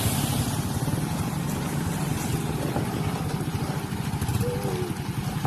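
Vehicle engine running steadily, with a fast, even firing pulse.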